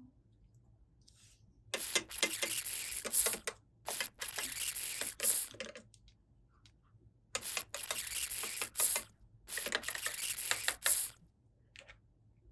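Toy packaging being torn open and crinkled in four rustling bursts of about two seconds each, with small sharp crackles inside them.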